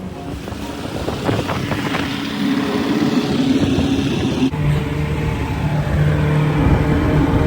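A motor engine running steadily, with an abrupt change in the sound about four and a half seconds in, after which a low steady hum is plain.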